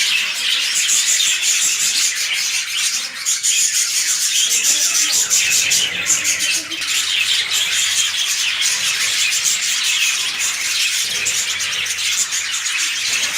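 A colony of lovebirds chattering and squawking without a break, many high calls overlapping.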